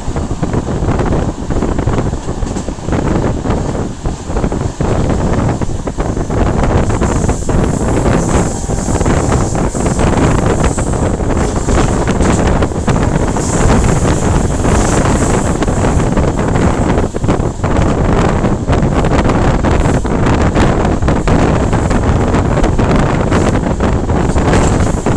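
Loud wind buffeting the microphone over the steady rumble of a running train, with irregular gusts and knocks throughout.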